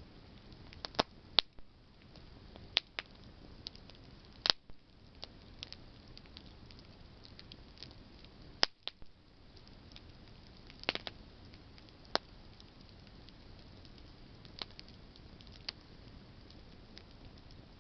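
Campfire of burning branches crackling: sharp, irregular pops and snaps over a faint steady hiss.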